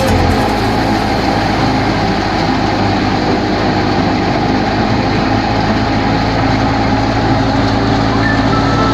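Large farm-machinery engine running steadily at a constant speed.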